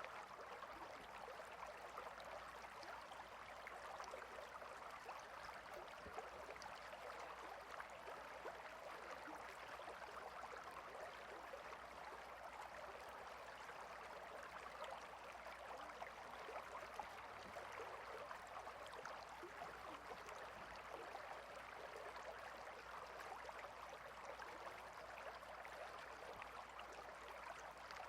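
A stream of water flowing steadily, heard as a faint, even rushing that does not change.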